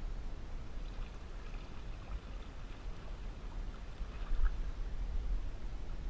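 Water splashing and lapping around a kayak, with a few small splashes, the loudest about four and a half seconds in, over a steady low rumble.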